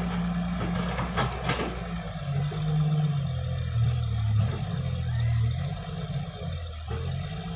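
Tractor's Viku engine running, its speed dropping for a few seconds in the middle and then picking back up, with a few sharp knocks in the first second and a half.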